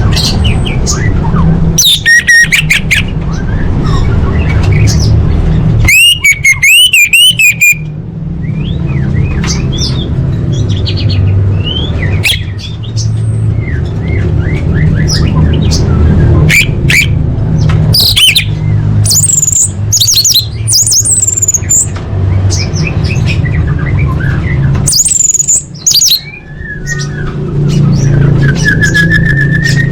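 Orange-headed thrush (anis merah) singing a varied song of short whistled phrases, chirps and mimicked calls, with a fast warbling trill about six seconds in, over a steady low hum.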